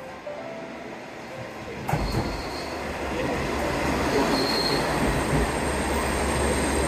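Train running on the rails: a loud, steady rumble and rattle that starts suddenly about two seconds in, with a couple of brief high wheel squeals.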